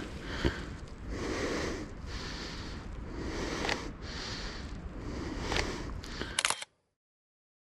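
A person breathing hard in a steady rhythm of about one breath a second, with occasional sharp footstep clicks. Near the end comes a quick run of three or four clicks, then the sound cuts off abruptly to silence.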